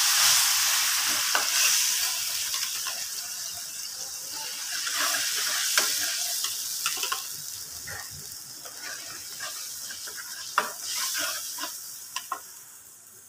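Water-blended spice paste of onion, garlic, ginger and galangal sizzling in hot oil in a metal wok, loudest just after it goes in and dying down over the seconds, while a metal spatula stirs it with scattered scrapes and clicks against the pan.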